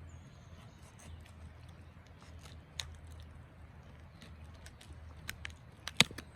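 Handling noise: scattered light clicks and taps, with one sharp knock about six seconds in.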